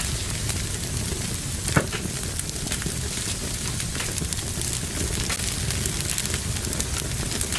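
Wood fire crackling in a fireplace: a steady low rumble of flames with many small snaps, and one louder pop a little under two seconds in.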